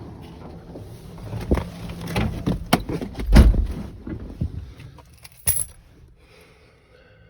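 Keys jangling amid a run of clicks and knocks, with one heavy thump about three and a half seconds in and a sharp click a couple of seconds later.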